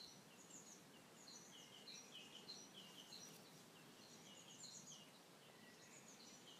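Faint bird chirping: a string of short, high notes repeating over near silence.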